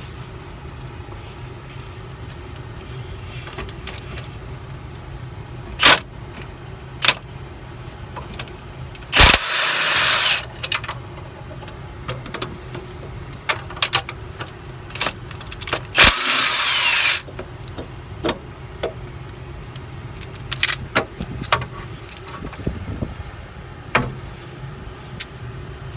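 Two bursts of a pneumatic tool, each about a second and a half, about nine and sixteen seconds in, loosening the top bolts of a bus's front air-suspension bag, between metal clinks of sockets and wrenches. A steady low hum runs underneath.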